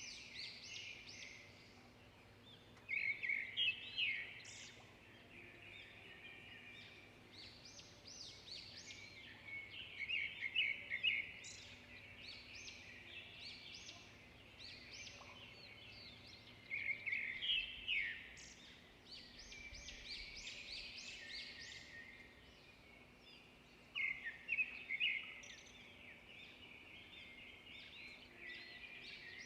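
Birdsong from several small birds: continuous high chirping and twittering, with louder bursts of rapid trilled calls every six or seven seconds.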